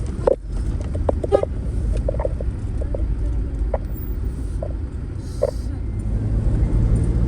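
Low, steady rumble of a vehicle on the move, with scattered light knocks and rattles.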